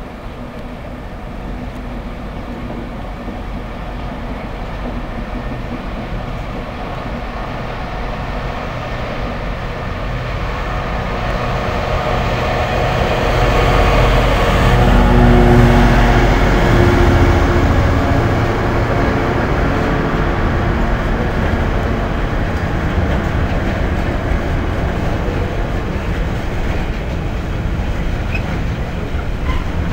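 GB Railfreight Class 66 diesel locomotive running through at speed with a container freight train. Its EMD two-stroke diesel builds to a loud peak as it passes, about halfway through. The rolling noise of the long rake of container wagons then continues steadily.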